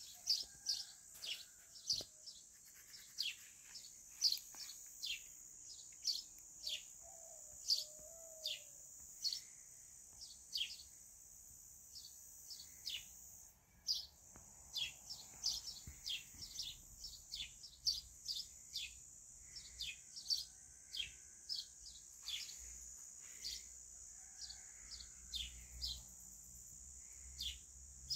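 Small birds chirping repeatedly: short high chirps that fall in pitch, one to three a second, over a steady high hiss.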